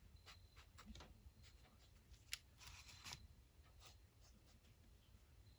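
Faint scratching of a Micron fineliner pen drawing short strokes on paper, with a sharper tick a little past two seconds in.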